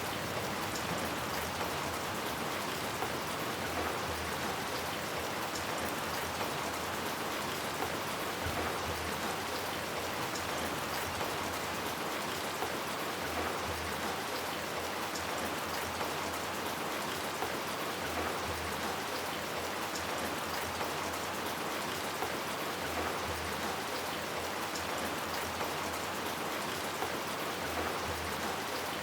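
Steady rain falling on hard surfaces, an even wash with fine drop ticks throughout.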